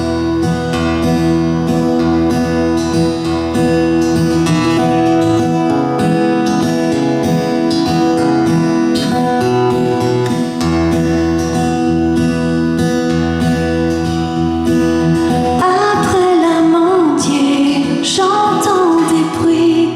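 Song intro played on strummed acoustic guitar over a low bass line. About sixteen seconds in, a wavering lead melody comes in above it.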